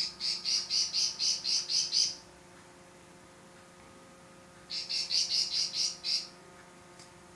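A bird calling in two runs of rapid, high chirps, about four a second, the second run starting near the middle.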